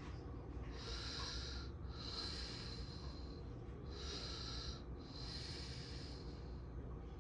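Steady low rumble of a passing freight train, with loud, rhythmic breathing close to the microphone in surges about a second long.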